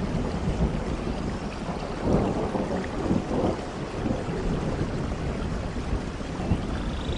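Thunderstorm: low rolling thunder over rain, swelling about two seconds in.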